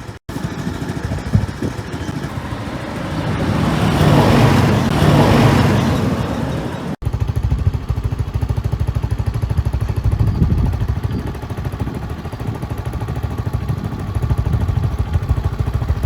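Single-cylinder four-stroke engine of a Suzuki Skydrive 125 scooter running on the move. A rushing noise swells and fades a few seconds in, and after a brief break about seven seconds in the engine is heard as a steady, rapid low pulsing.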